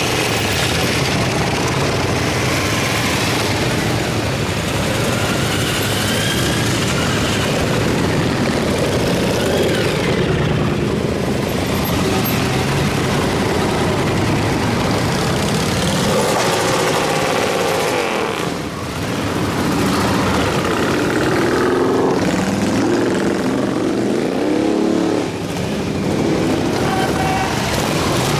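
A stream of motorcycles riding past in a parade: many engines running at once, with repeated revving that rises and falls in pitch.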